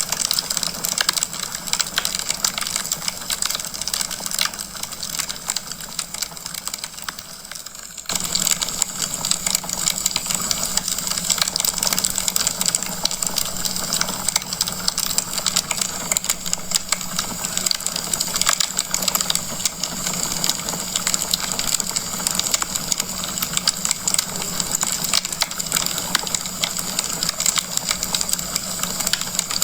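Wood fire crackling in a fireplace: dense, irregular pops and snaps over a steady hiss. The sound thins and drops slightly, then jumps back up abruptly about eight seconds in.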